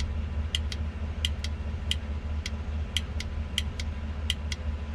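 A vehicle engine running with a steady low rumble, with sharp metallic clicks coming in pairs about every two-thirds of a second.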